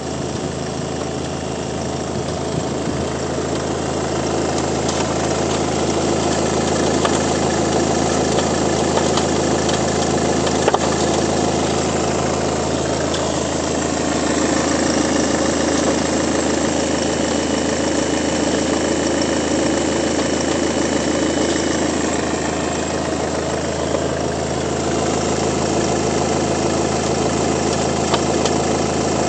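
Ford S-Max 2.0 TDCi four-cylinder diesel engine running steadily at idle, the bad engine noise its owner wants diagnosed, with an occasional sharp click.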